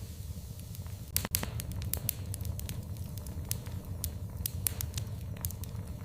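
Wood fire burning in a fireplace, crackling and popping irregularly over a low, steady rumble of flame, with two sharper pops just over a second in.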